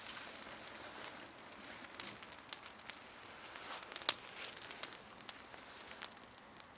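Wood campfire crackling: irregular sharp pops and snaps over a steady hiss of burning, with the loudest pop about four seconds in.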